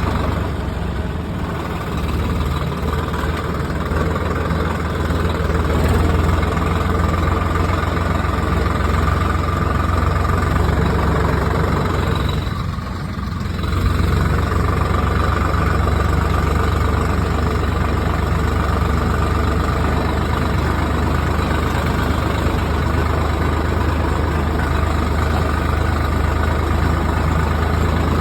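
A vehicle engine running steadily with a constant low hum, briefly dipping in level about halfway through.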